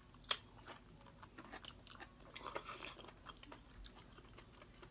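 Faint chewing and wet mouth clicks from people eating steamed king oyster mushrooms, with a sharp click about a third of a second in and a short, louder stretch of mouth noise about halfway through.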